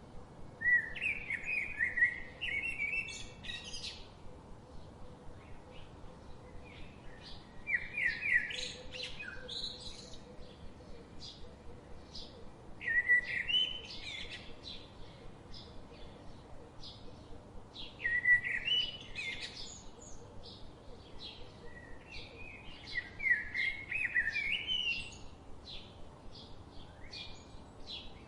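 A songbird singing a quick warbled phrase of two to three seconds, repeated five times about every five seconds, with short chirps in between.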